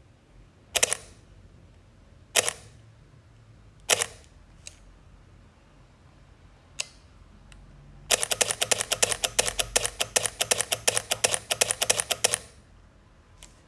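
Leica digital camera shutter firing three single frames about a second and a half apart, each a quick double click, then a burst of continuous shooting: rapid shutter clicks for about four seconds.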